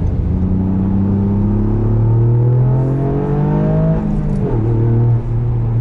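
Toyota GR Yaris's turbocharged 1.6-litre three-cylinder engine accelerating through a Milltek non-resonated exhaust, heard inside the cabin. The revs climb steadily for about four seconds, fall with a gear change, then climb again.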